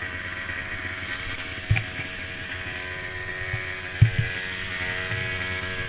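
Small mini quad engines running steadily with a buzzing drone, broken by two sharp low thumps, the louder one about four seconds in.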